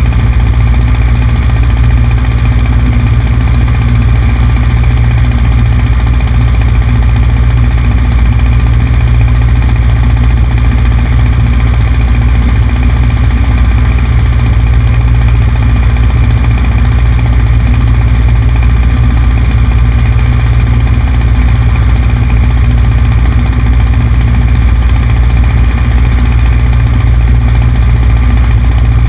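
Cessna 150's four-cylinder Continental O-200 engine and propeller running at a steady, unchanging drone, heard from outside on the wing with airflow noise over the microphone.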